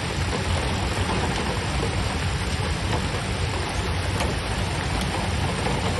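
Steady rushing noise of water, with a low rumble underneath.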